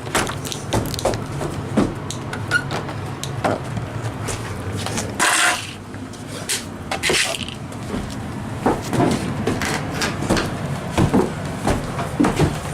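Irregular knocks and clatter of wooden train-table boards being handled and set down, with two brief rushing noises about five and seven seconds in.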